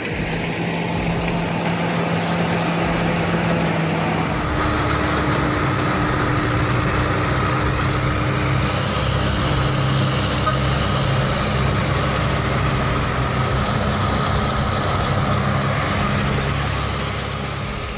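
Heavy truck engine running under load, with a steady drone and tyre and road noise. It grows louder and fuller about four seconds in.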